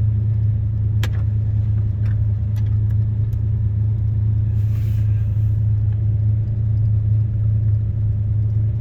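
1976 Oldsmobile Cutlass's 455 Rocket V8 idling steadily, heard from inside the cabin as a low even rumble, with a few light clicks in the first few seconds.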